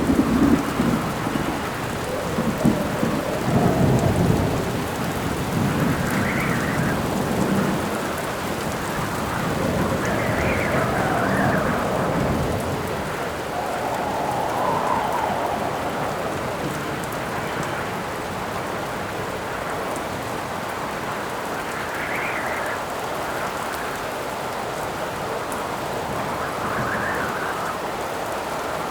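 Storm ambience: steady rain with howling wind gusts that swell and fade every few seconds, and rolling thunder rumbling through roughly the first dozen seconds before dying away.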